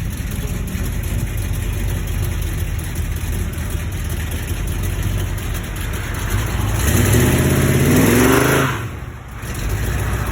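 Car engines running low and steady, then about six and a half seconds in one car accelerates hard, its engine note rising in pitch for about two seconds before dropping away suddenly.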